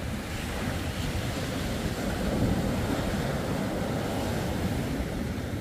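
Ocean surf washing and breaking, a steady rush of water, with wind buffeting the microphone.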